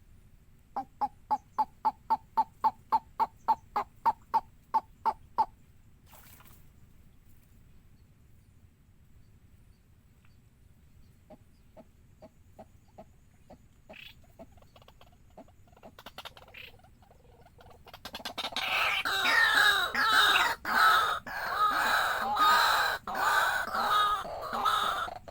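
Waterhen calling: a steady run of about fifteen single notes, about three a second, then after a long pause a loud, dense chorus of overlapping calls that begins about three quarters of the way through.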